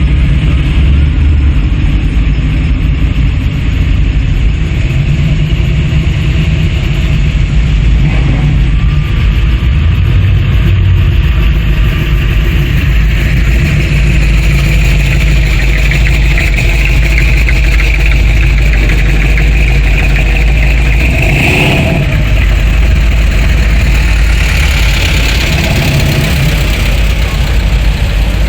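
Car engines running at low speed, a steady low rumble, with a brief rise in engine sound a little past the middle.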